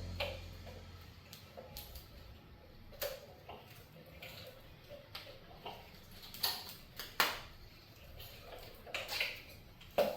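Light, scattered clicks and taps, about one every second or two, from hands handling a pipe fitting while wrapping thread seal tape onto its threads.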